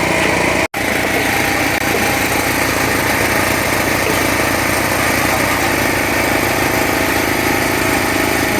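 Small Cat excavator's diesel engine running steadily, with a split-second break in the sound near the start.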